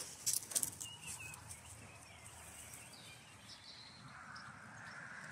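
Quiet outdoor ambience with faint bird chirps, broken by a few sharp knocks about half a second in. A faint steady hiss builds near the end.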